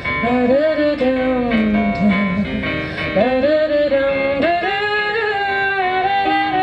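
Female singer vocalizing wordless melodic runs that slide between long held notes, over instrumental accompaniment.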